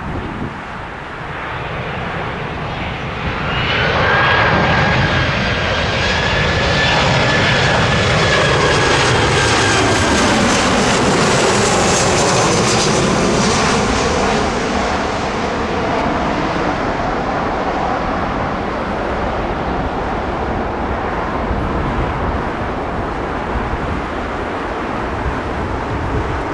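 Airliner's engines passing low overhead: the noise rises sharply about four seconds in, with a high whine that falls slightly in pitch, then eases into a long, lingering rumble.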